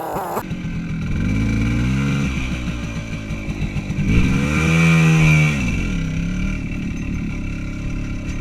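Small motorcycle engine running and revved twice: briefly about two seconds in, then harder from about four seconds, its pitch rising and falling back each time.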